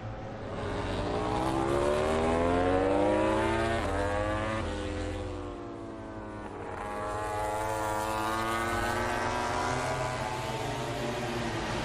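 MotoGP race bike engines at racing speed, the high-revving note climbing in pitch as a bike accelerates, dropping sharply about four seconds in, then climbing again from about seven seconds.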